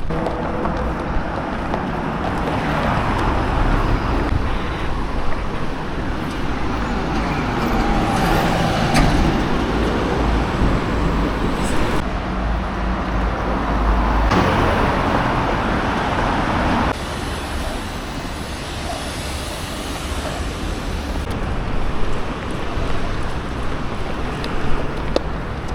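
Steady city road traffic: passing cars and trucks, with the noise changing abruptly several times.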